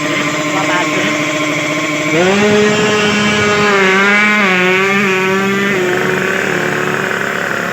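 Drag-bike motorcycle engine running at idle, then raised to a higher steady rev about two seconds in, held there with small wavering blips, and let back down near six seconds.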